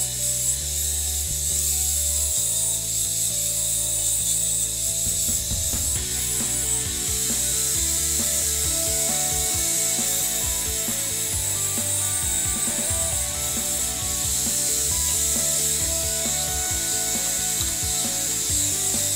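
Angle grinder grinding on a welded steel auger shaft, heard under background music with changing bass notes and a steady beat.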